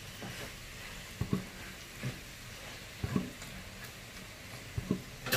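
Stirring in a frying pan: a utensil scrapes and knocks against the pan about once a second, often two strokes close together, over a faint steady sizzle of frying fish skin. A sharper, louder clack comes near the end.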